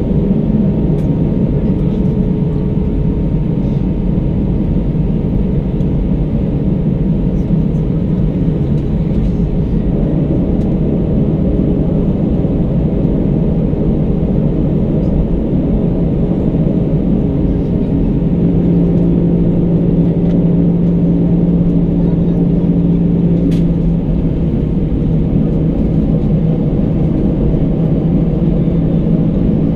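Airbus A319 jet engines and airflow heard from inside the passenger cabin: a steady, loud rumble with a low droning hum. The hum's pitch shifts slightly about two-thirds of the way through.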